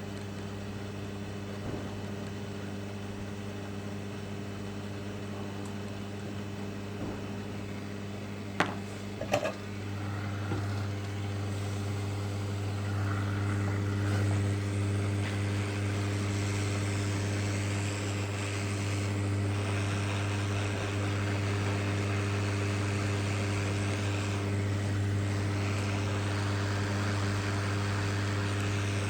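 Steady electrical hum from running bench equipment, with a fan-like rush. Two sharp clicks come about a third of the way in, then the rush grows louder and stays up.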